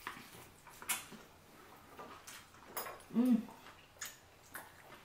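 Eating sounds: sharp wet mouth clicks and chewing as sausage is bitten and chewed, with one short hum-like sound, rising then falling, about three seconds in.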